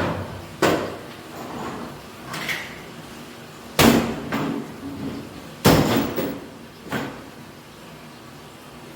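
A series of sharp knocks and clunks, about five in all and a second or two apart, the two loudest in the middle, like hard parts being handled and set down.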